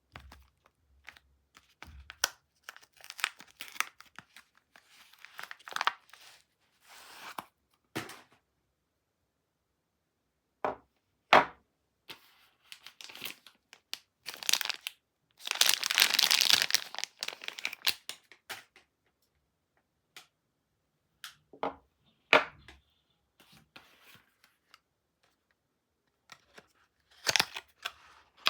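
Soap packaging being unwrapped by hand: crinkling and rustling wrapper, one long loud tear about halfway through, and a few sharp taps or knocks between pauses.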